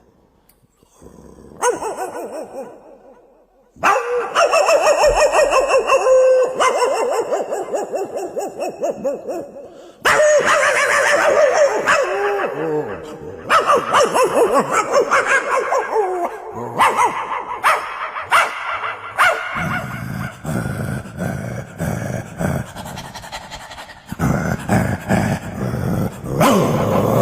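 A voice making long, wavering, pitched calls in repeated runs with short breaks, some sliding down in pitch.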